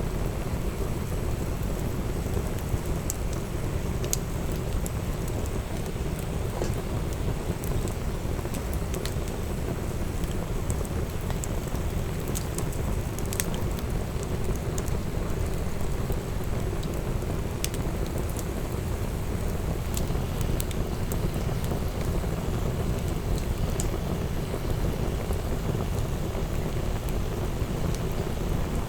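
Wood fire burning: a steady low rushing sound with scattered sharp crackles and pops.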